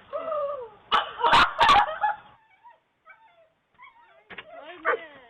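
A dog whining with a falling pitch, then barking three times in quick succession about a second in, followed by fainter, short, high yelps.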